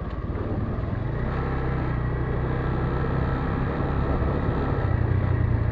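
Motorcycle engine running steadily under way, growing a little louder near the end.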